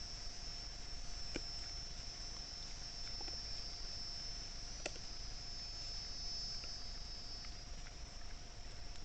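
A steady, high-pitched insect chorus, like crickets trilling, with a few faint clicks. It eases off slightly near the end.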